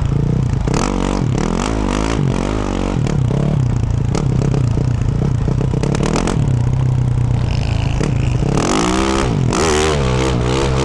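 2024 Yamaha YZ450F's 450 cc four-stroke single through a Yoshimura RS-12 exhaust, ridden off-road: the engine revs up and down over and over, holds a steadier note for a couple of seconds past the middle, then revs hard again near the end. Frequent clicks and knocks from the bike over rough ground run alongside.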